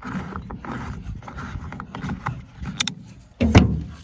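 Irregular knocking and handling noise, with a couple of sharp clicks, then one heavy thump about three and a half seconds in.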